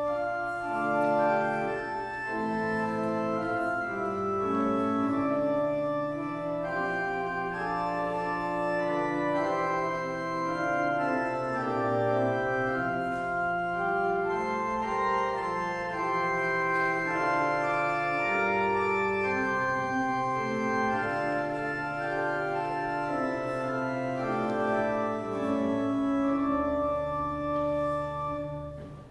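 Organ playing a hymn in sustained chords over a held bass line. The sound breaks off briefly near the end.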